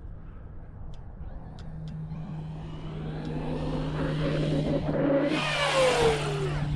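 Off-road vehicle's engine running under load on a rough trail, revs climbing over a few seconds, then a loud rush of noise about five seconds in as the revs drop back.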